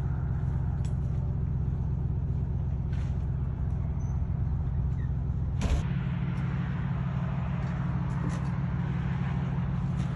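Engine running steadily, with one sharp knock about six seconds in, after which the engine note shifts slightly.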